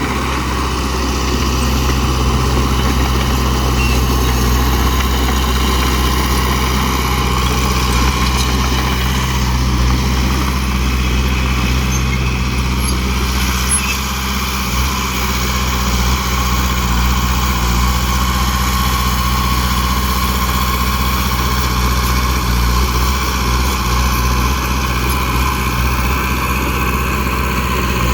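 Heavy dump truck engine running steadily with a deep, even rumble.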